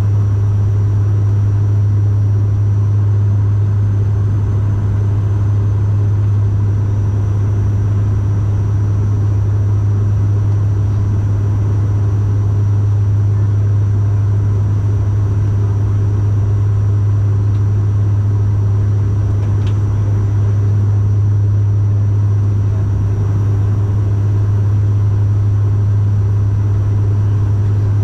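Cabin drone of a Bombardier Dash 8 Q400 turboprop: the six-bladed propellers of its two Pratt & Whitney PW150A engines give a loud, steady low hum. A faint steady high whine sits above it.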